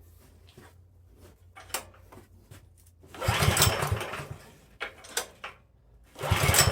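Troy-Bilt snowblower engine cranked twice on its pull-start recoil rope, about a second each, without catching; the owner takes it to be flooded.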